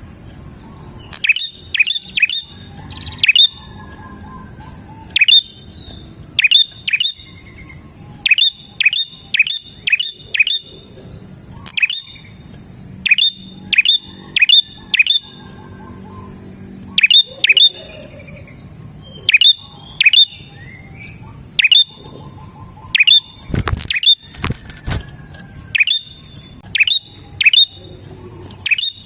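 Prenjak (prinia) calling: sharp, clipped chirps that drop in pitch, given singly or in quick runs of two to four, about one cluster every second or two. A steady high-pitched tone runs underneath, and a single knock sounds about 23 seconds in.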